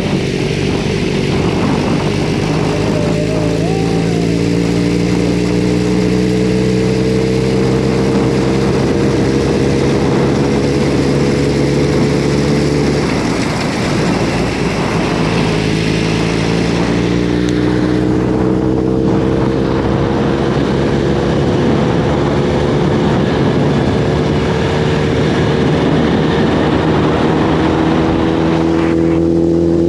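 Motorcycle engine running under way, with rushing wind noise. Its pitch climbs slowly as it gathers speed, breaks off briefly about halfway through, then climbs again.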